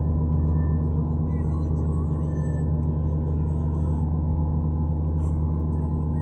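Steady low drone of an airliner's idling jet engines and cabin air system heard inside the passenger cabin, a constant hum with several held low tones.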